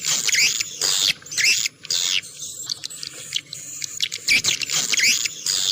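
Edible-nest swiftlets twittering: a dense run of rapid, high chirps and trills, broken by short gaps about a second and two seconds in. It is a swiftlet calling sound of the kind played to lure the birds to roost and nest.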